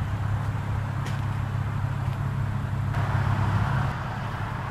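Steady low vehicle rumble, with a rushing hiss that swells about three seconds in and eases near the end.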